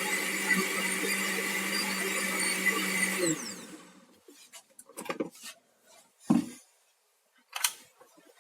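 Electric mixer whisking cake batter with a steady motor whine. About three seconds in it is switched off and winds down with a falling pitch. A few short knocks and clatters follow.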